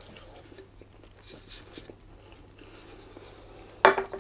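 Quiet chewing and small eating noises, then a sharp clink of cutlery against a dish near the end.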